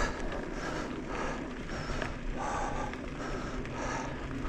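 Steady rhythm of crunching steps on a dry dirt trail, about one every half second or so, over a low background rumble.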